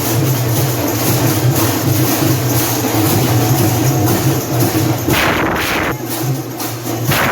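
Loud, steady din of a street procession crowd, with a pulsing low rumble beneath and two short swells of noise about five and seven seconds in.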